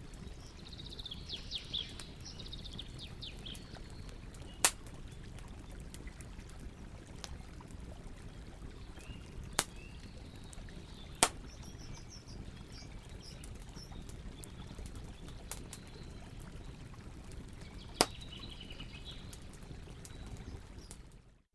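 Campfire burning with a few sharp pops from the wood, four in all, over a steady rush of flowing water. Birds chirp about a second in, again midway and near the end.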